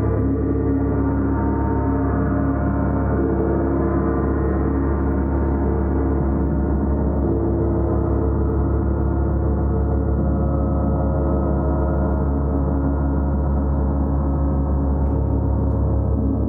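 Gong played continuously: a sustained wash of many overlapping ringing tones with a deep low hum. Fresh tones swell in about three seconds in and again near the end.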